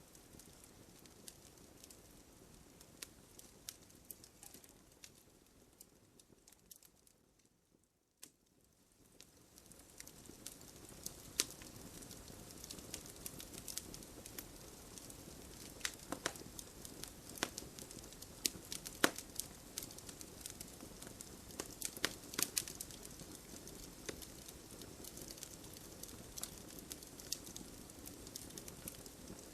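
Wood campfire crackling: a steady low hiss of burning with many sharp pops and snaps scattered irregularly throughout. About a quarter of the way in the fire sound fades almost away for a second or so, then comes back.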